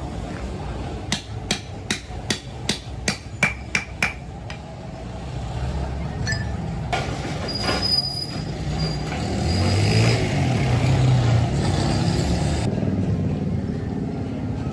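A hammer striking metal about nine times in quick succession, roughly three blows a second, with a ring on each blow, over a steady motor rumble that grows louder after the hammering stops.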